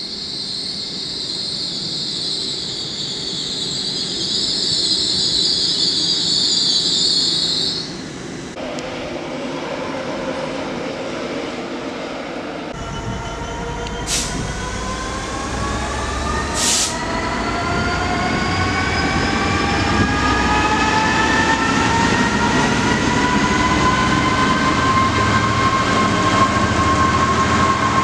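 Railway sounds: a train's wheels squealing high and steady for the first several seconds, then, after a cut, a train pulling away with several whining tones rising together in pitch and levelling off, broken by two sharp clicks.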